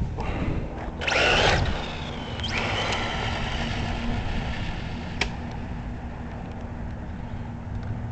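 Electric motor and gears of a 1/10 RC truck whining as it drives off, fading as it moves away. About a second in there is a short loud rush of noise, and a sharp click comes later.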